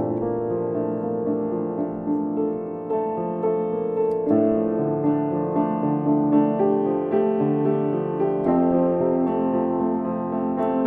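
Solo piano music: slow, calm sustained chords with soft melody notes.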